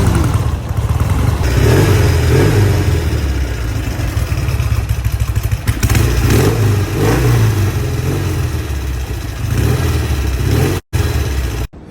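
1970 Norton Commando 750's parallel-twin engine running, its revs rising and falling repeatedly. The sound drops out briefly twice near the end.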